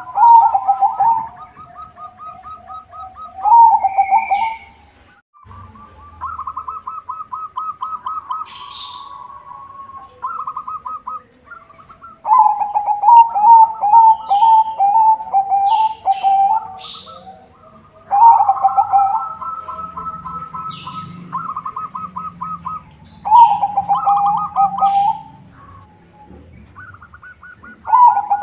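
White zebra dove (perkutut) singing its cooing song. It repeats phrases of fast rolling, pulsed coos a few seconds apart. Short high chirps from another bird come in between.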